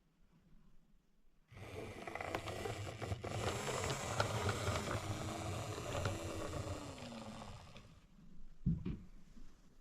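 Model N2 tank locomotive running on the layout's track: a rumble full of small wheel and rail clicks with a faint motor whine that falls in pitch as it slows to a stop. A single short thump follows near the end.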